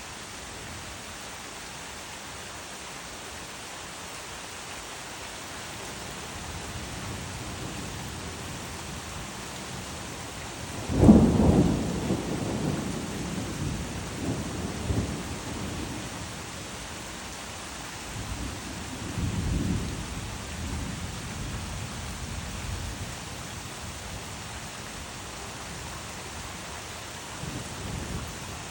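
Steady rainfall with thunder: a low rumble builds, then about a third of the way in a loud thunderclap breaks and rolls away, with a second, weaker roll of thunder past the middle and a faint one near the end.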